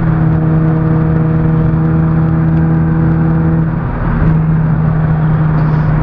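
Car engine and road noise heard from inside the cabin while driving at highway speed: a steady engine drone that dips briefly about four seconds in, then settles back.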